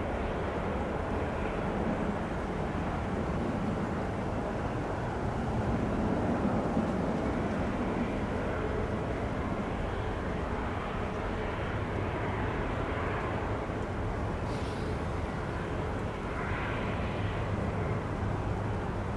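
Turboprop airliner running steadily, an even engine and propeller noise with a faint held tone.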